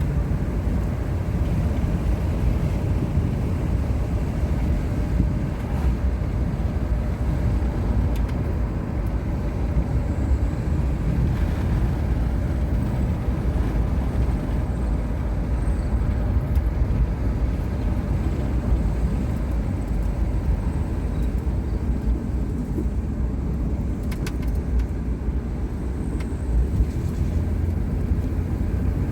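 Steady low rumble of road and engine noise heard from inside a moving car, even throughout.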